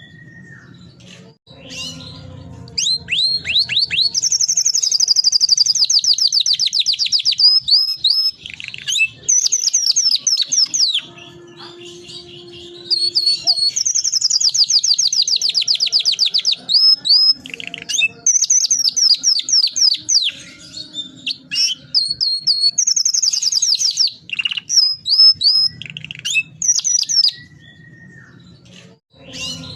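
Domestic canary singing long rolled trills: fast runs of repeated high notes, several lasting a few seconds, broken by short pauses and separate chirps.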